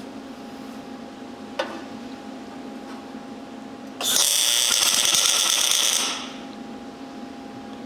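A MIG welder laying a short tack weld: about two seconds of loud crackling hiss starting about four seconds in, over a steady hum, with a single sharp click before it.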